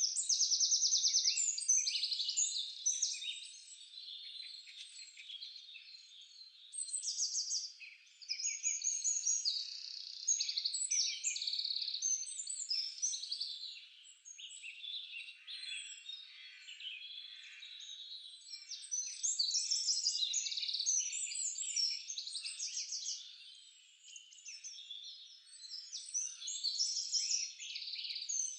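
Several songbirds singing at once in a forest dawn-chorus style: overlapping high chirps, whistles and rapid trills that come and go.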